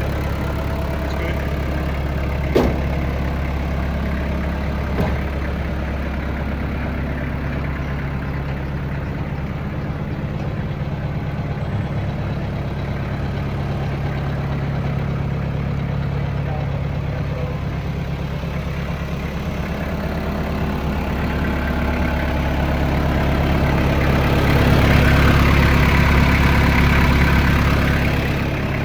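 Kubota M9000 tractor's diesel engine running steadily at idle, getting louder for a few seconds near the end. A sharp click sounds about two and a half seconds in, and a fainter one around five seconds in.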